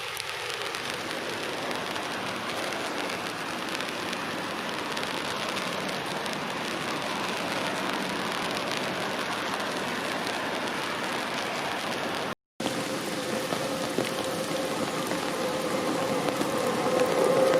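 Heavy rain falling steadily. The sound drops out briefly about twelve seconds in; after that a steady hum comes in and grows louder toward the end.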